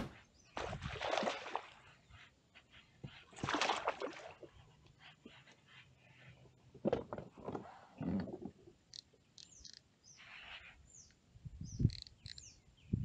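Birds chirping in short, quick, falling notes in the second half. Earlier there are two brief noisy swishes, and a few dull knocks come later.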